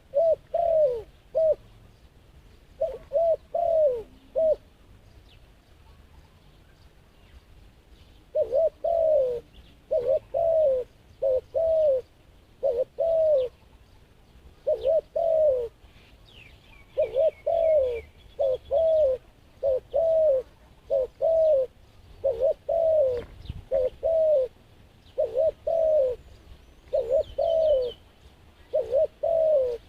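A dove cooing over and over in short phrases of two or three arched notes, with a pause of a few seconds before the cooing picks up again and runs on steadily. A small bird chirps faintly and briefly twice in the background.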